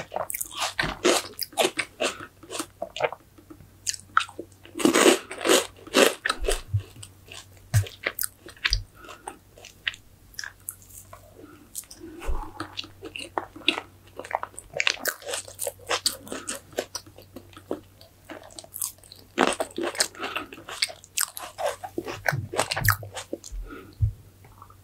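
Close-up eating sounds of a person chewing a fresh strawberry with whipped cream: rapid, irregular wet mouth clicks and bites, coming in clusters.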